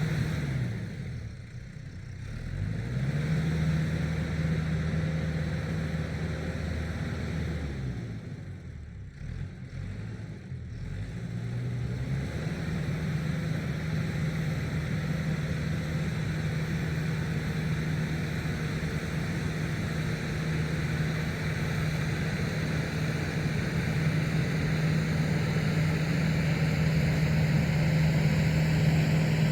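Tractor's diesel engine running steadily under working throttle. Its pitch and loudness drop and come back up twice, about two seconds in and again between about eight and eleven seconds.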